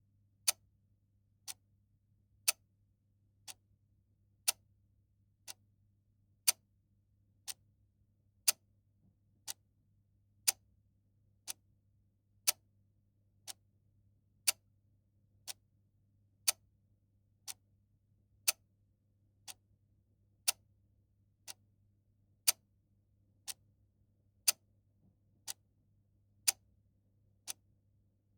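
A clock ticking steadily once a second, the ticks alternating louder and softer in a tick-tock pattern.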